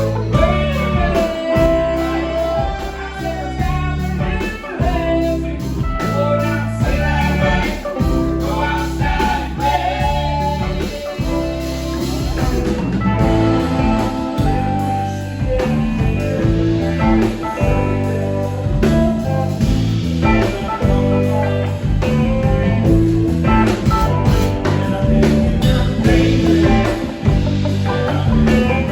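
Live blues-rock band playing, with electric guitar lines over bass and drums, and singing.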